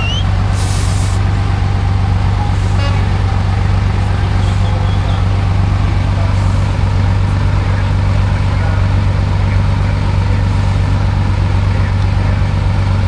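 Heavy off-road trial truck's engine running at a steady, unchanging drone, with a short hiss about a second in.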